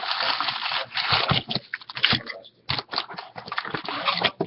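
Crinkling and rustling of a sealed box of trading-card packs being opened, with the wrapped packs handled and pulled out, in a run of quick crackles.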